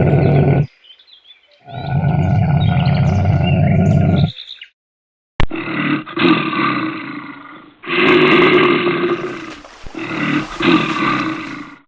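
Loud animal roaring in long calls, broken by a sharp click about five seconds in, after which shorter calls come in several bouts.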